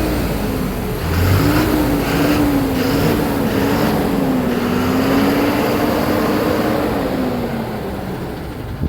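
Heavy truck engine running: a single droning note wavers slightly from about a second in and sinks near the end, over a steady rumble and noise.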